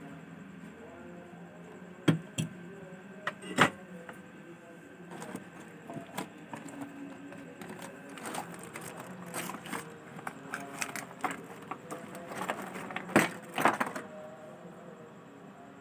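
Irregular sharp clicks and taps of small hard objects being handled, such as tools and phone parts on a workbench, with a faint steady hum behind; the loudest clicks come about two seconds in, three and a half seconds in, and near the end, with a busy run of small ticks in the second half.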